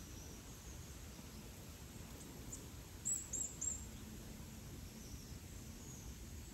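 A small bird gives a quick run of three or four high, falling chirps about three seconds in, over fainter chirping and a low, steady outdoor rumble.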